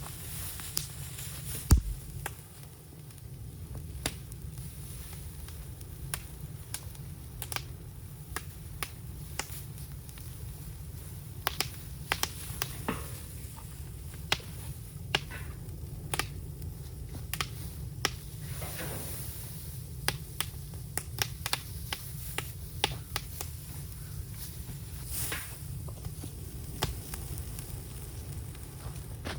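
Bamboo fire crackling and popping irregularly over a steady low rumble of burning, with one loud sharp knock about two seconds in.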